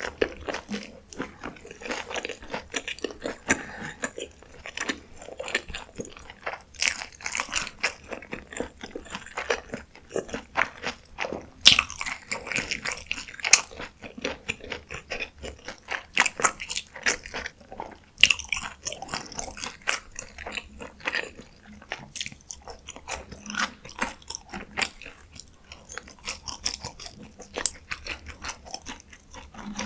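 Close-miked eating of fast food: repeated crunchy bites and chewing, with a dense run of crisp crackles.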